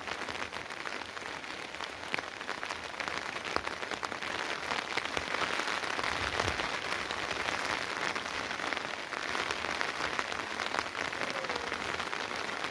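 Steady rain falling, with many separate drops ticking close by; it grows a little heavier about four seconds in.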